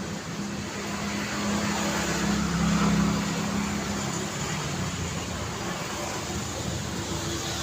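Road traffic noise: vehicle engines and tyres on the road, with one vehicle passing close and loudest about two to three seconds in.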